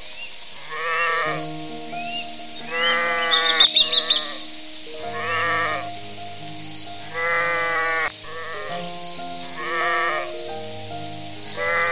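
Mouflon ram bleating, about six calls a couple of seconds apart, over soft background music with sustained notes. A quick run of high chirps about three and a half seconds in is the loudest moment.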